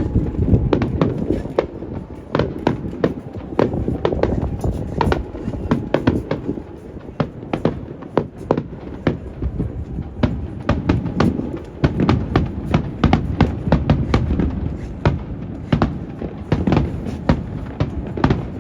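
Aerial fireworks bursting in quick succession: a dense run of sharp bangs and crackles, over a steady low rumble of wind on the microphone.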